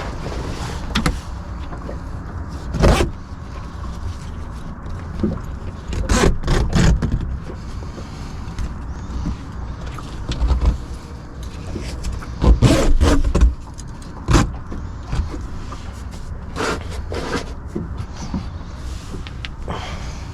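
Scattered clinks, knocks and scrapes of camp cooking gear being handled, a pot, utensil and meal pouch, with a longer scraping stretch a little past the middle, over a steady low rumble.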